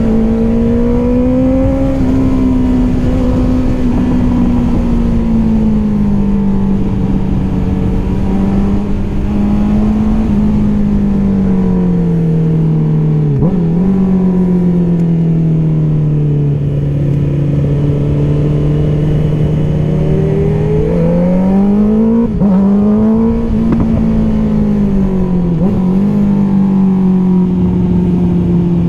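2023 Honda CBR650R's inline-four engine through an Akrapovic exhaust, running under riding load. Its note slowly rises and falls as the throttle changes, and breaks off sharply for an instant three times, the last two close together near the end.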